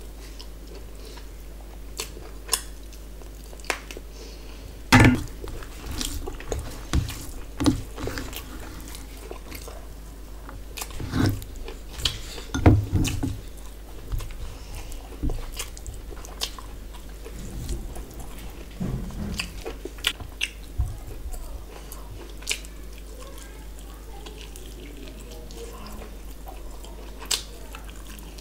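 Close-miked eating sounds: chewing with wet mouth clicks and smacks, scattered throughout and busiest around five seconds in and between about eleven and thirteen seconds, with fingers mixing rice and curry on a steel plate. A steady low hum runs underneath.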